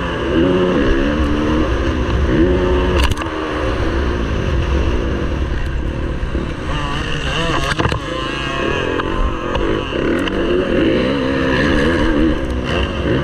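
Motocross bike engine racing, revving up and dropping back again and again through the gears. A sharp knock is heard about three seconds in.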